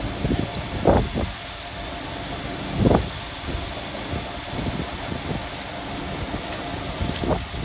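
Crankshaft grinding machine running steadily, a constant hum under a high hiss, with brief louder bumps about one second and three seconds in.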